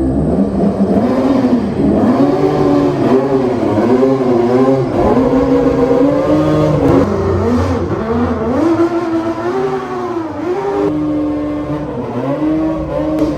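KTM 250 SX two-stroke dirt bike engine revving hard, its pitch climbing and dropping again and again with the throttle as the bike is ridden.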